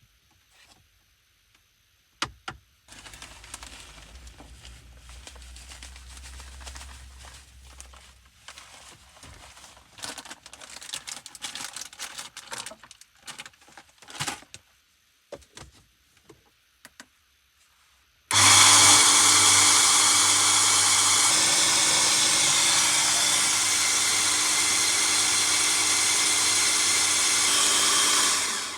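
Handling noises and clicks, then a small electric motor whirring loudly and steadily for about ten seconds before it cuts off.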